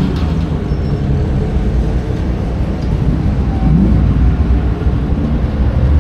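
Historic racing car engines running loud and steady, with one engine note rising briefly a little before four seconds in.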